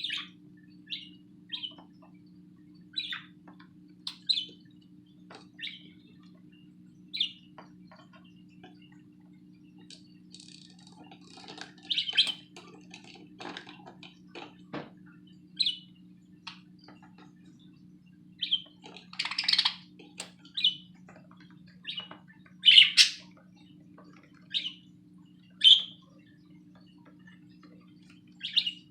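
Budgies chirping in short, irregular high calls about a second or two apart, with busier bursts of chattering now and then. A faint steady low hum runs underneath.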